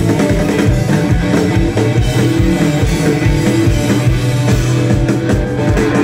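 Live punk rock band playing an instrumental passage between vocal lines: electric guitar and bass over a fast, steady drum beat.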